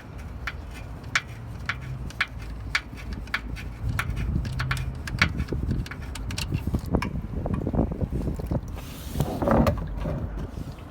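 Wrench clicking and knocking against a car's oil drain plug as it is loosened, over a low rumble of wind on the microphone, with a short hiss about nine seconds in.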